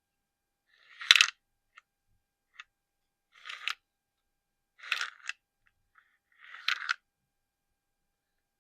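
Close-up ASMR handling of small plastic collectibles: four short scratching strokes a second or two apart, each with a sharp tap or click in it, and a few faint clicks between.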